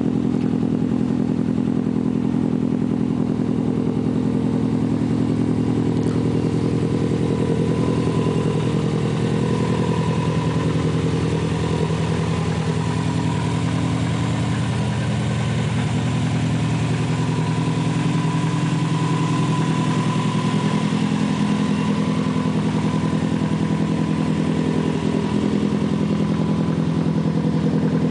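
Subaru Impreza WRX's turbocharged flat-four boxer engine, tuned to 320 bhp, idling steadily.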